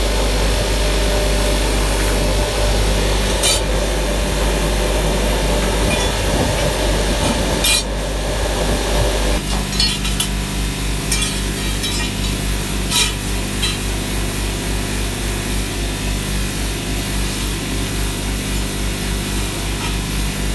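Metalworking machinery running steadily, with a few sharp metal clinks. About nine seconds in, the machine noise changes to a lower hum that pulses evenly.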